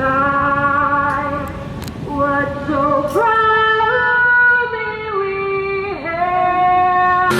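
A woman singing long held notes that step and slide between pitches, with no instruments behind her.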